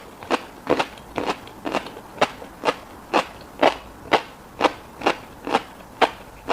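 Close-miked chewing of fish roe, with crisp, wet, crackling chews in a steady rhythm of about two a second.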